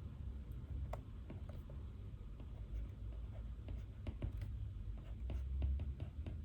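Pen writing on paper: irregular small scratches and ticks of handwriting, over a steady low room hum.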